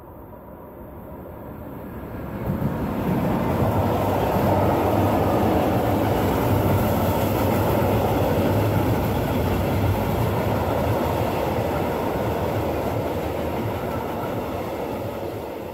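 Electric locomotive hauling a freight train of hopper wagons past: the sound swells as the locomotive approaches and passes about two and a half seconds in, then the wagons' wheels rumble and clatter along the rails steadily, falling away near the end.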